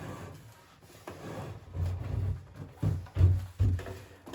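Poplar swing parts being turned and set down on a workbench: a string of irregular dull wooden thumps and knocks, the heaviest in the second half.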